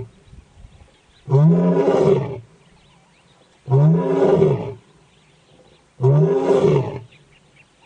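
A large animal calling three times, each call about a second long, rising then falling in pitch, about two seconds apart.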